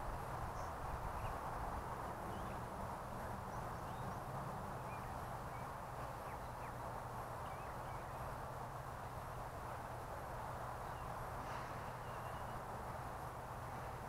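Faint, scattered short bird chirps over a steady background hiss and low hum.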